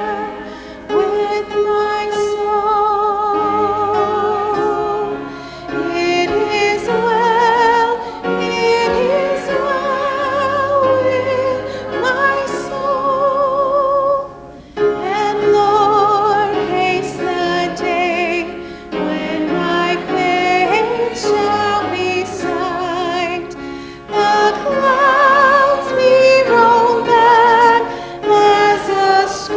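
Slow song: a voice singing held notes with strong vibrato over instrumental accompaniment with a low bass line.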